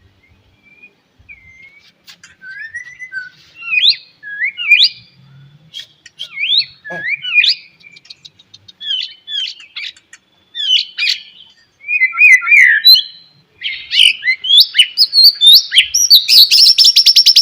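White-rumped shama singing: a varied run of clear whistled phrases that slide up and down in pitch, growing louder toward the end and breaking into a fast rattling trill of repeated notes in the last second or so.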